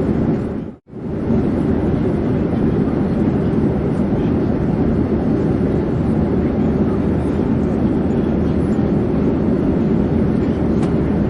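Steady, deep drone of an airplane in flight, engine and airflow noise with no rise or fall. Under a second in it dips briefly to near silence and comes straight back.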